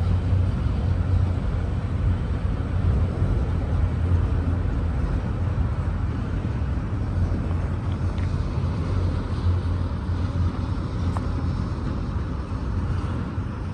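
Auto-rack freight train rolling by with a steady low rumble that eases slightly near the end.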